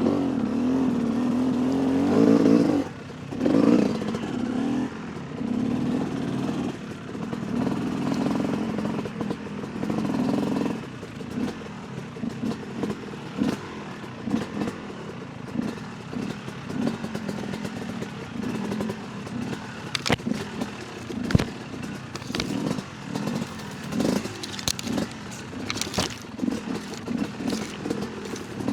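Yamaha YZ250 two-stroke dirt bike engine revving in bursts of throttle. About ten seconds in, it settles to short, choppy blips, with sharp clicks and knocks from the bike over rough ground.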